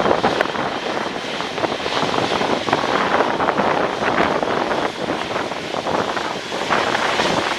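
Airliner engine noise: a steady rushing that rises and falls, mixed with wind buffeting the microphone.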